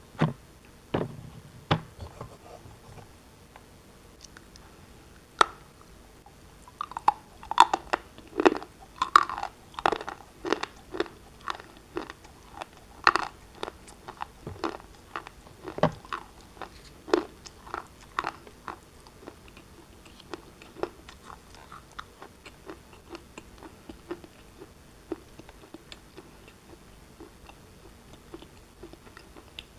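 Pieces of black shale being bitten and chewed, crunching. A few separate sharp bites at first, then a dense run of crunching chews, which grows fainter in the second half.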